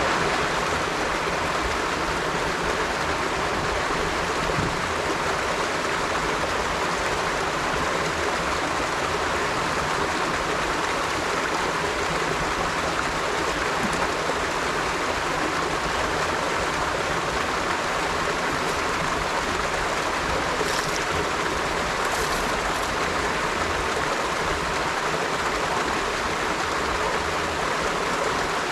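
River water flowing in a steady, even rush over its bed.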